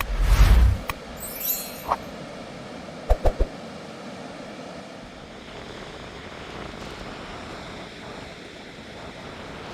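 Steady storm noise of rain and wind, with a loud gust buffeting the microphone in the first second and three quick thumps about three seconds in.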